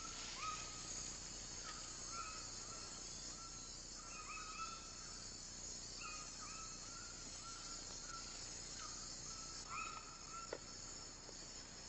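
Tropical rainforest ambience: a steady high insect drone, with short animal chirps repeating about once a second through it.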